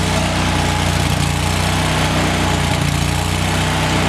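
Lincoln Ranger 10,000 welder/generator engine running steadily, warming up after a cold start.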